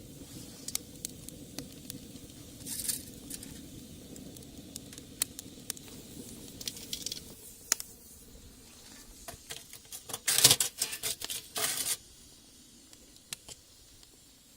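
Wood fire in a home-made brick rocket stove, crackling with irregular sharp pops over a low rumble that fades out about halfway through. A cluster of louder rattling noise comes about ten seconds in and lasts a couple of seconds.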